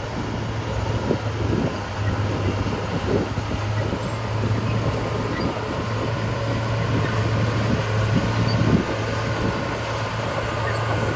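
Heavy diesel engine of earth-moving machinery running steadily, with scattered low knocks and clanks.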